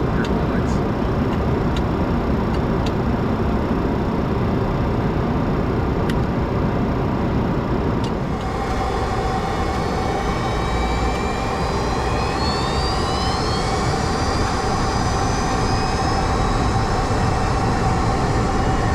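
Boeing 737-200 flight deck with its Pratt & Whitney JT8D turbofans running at high thrust after takeoff thrust is set: a steady loud rush of engine and air noise. About halfway a steady tone joins it, and high whining tones slowly rise in pitch.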